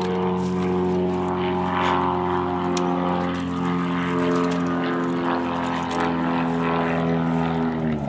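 A steady motor drone that switches on suddenly, holds one pitch, then winds down in pitch and cuts off near the end.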